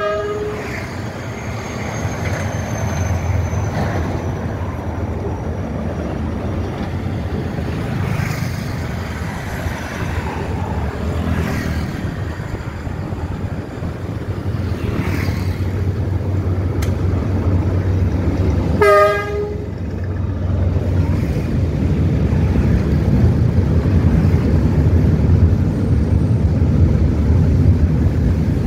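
Diesel freight train approaching and passing below, its engine a steady low rumble that grows louder over the last third as loaded wagons roll by. A horn note ends just at the start, and a short horn blast sounds about two-thirds through.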